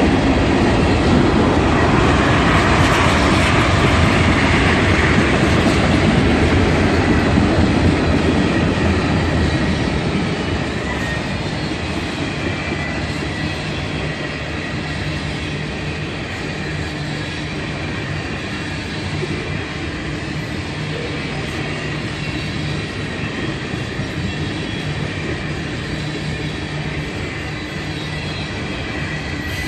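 Train cars rolling past with a steady rumble of wheels on rail, loudest for the first several seconds and then a little quieter and even, with faint wheel squeal.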